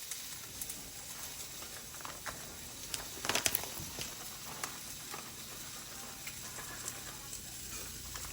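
Food frying quietly in a skillet, a low sizzle with scattered small pops and a quick run of clicks about three and a half seconds in.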